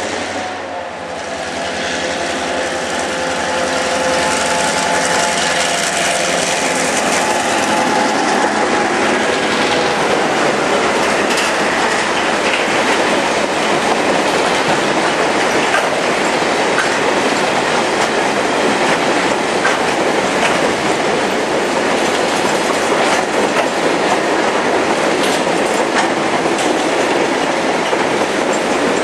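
X class diesel locomotive hauling a grain train past: its engine is heard as it approaches and goes by over the first several seconds. After that comes the steady rumble and clickety-clack of a long rake of grain hopper wagons rolling past.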